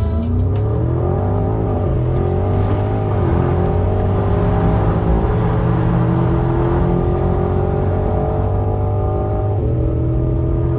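Porsche Cayenne Turbo GT's 4.0-litre twin-turbo V8 accelerating hard, its note rising through the revs. There is an upshift about three seconds in and another near the end.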